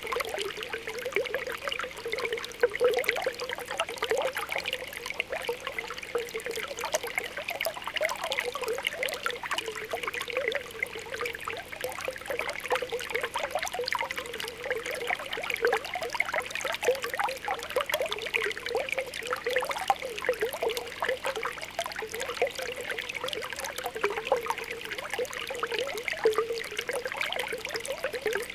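Spring water welling up from the ground, a continuous stream of small bubbling pops.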